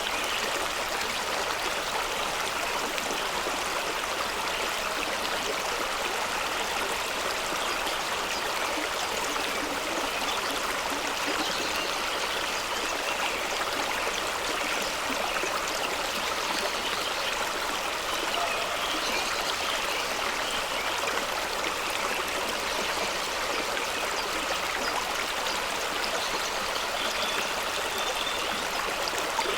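Fast-running stream rushing and splashing over rocks, a steady even rush of water.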